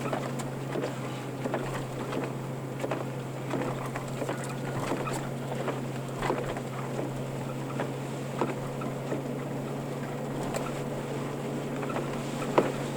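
Cabin noise of a four-wheel-drive vehicle driving in snow: a steady low drone from the engine and road, with scattered small clicks and knocks and a sharper one near the end.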